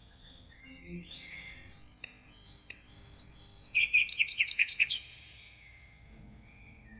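Birdsong over soft background music: a high whistled note, then a quick loud trill of about seven notes about four seconds in.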